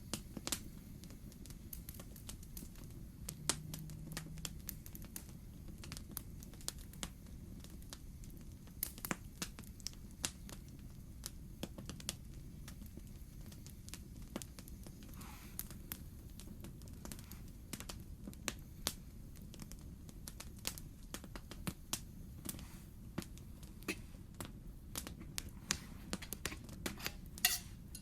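Campfire crackling: irregular sharp pops and snaps of burning wood over a steady low rumble, with a quicker run of snaps near the end.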